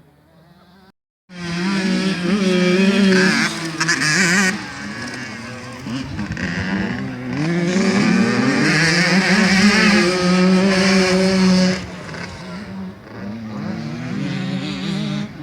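Two-stroke 85cc motocross bikes racing, their engines revving up and down as the riders go through the gears. After a brief dropout about a second in the engine sound comes in loud, then eases about twelve seconds in before rising again.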